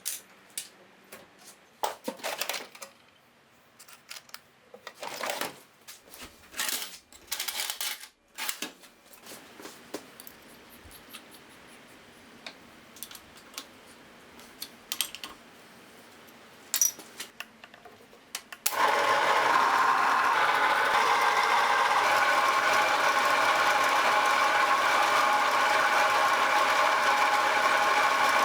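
Scattered light clanks and knocks of metal parts and tools being handled. About 19 s in, a power tool starts abruptly and runs steadily with a mechanical whine.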